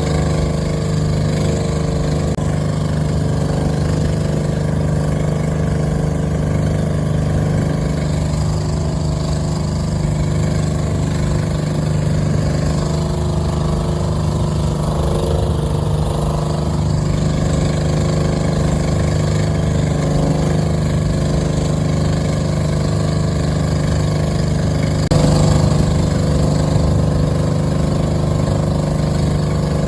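Small boat's engine running at a steady speed, a constant low drone with a noisy rush of wind and water above it, briefly a little louder about 25 seconds in.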